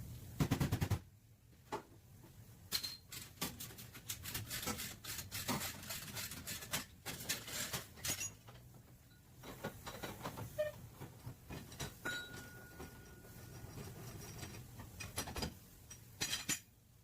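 Hand tools clinking and tapping on car body sheet metal in irregular short strokes, with a quick run of harder strikes about half a second in and a brief squeak later on.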